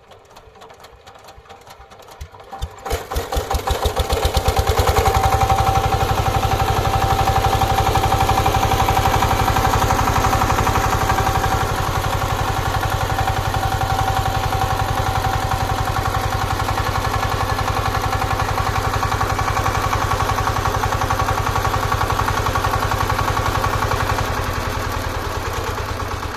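Power tiller engine chugging with slow, quiet beats, then picking up speed about three seconds in and running loud and steady with an even, fast beat.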